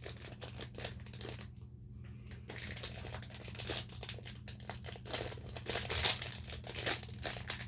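Toy packaging crinkling and rustling as it is handled and opened, in irregular bursts of crackle with a short lull about a second and a half in.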